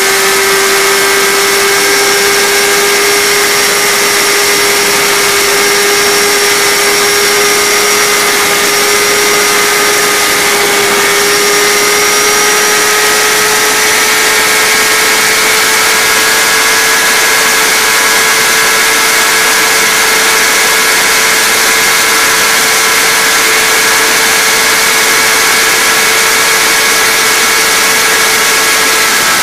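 Kawasaki Ninja ZX-10R's inline-four engine held at high revs under sustained full-speed running, its note climbing slowly and steadily in pitch. Heavy wind rush across the onboard microphone runs under it.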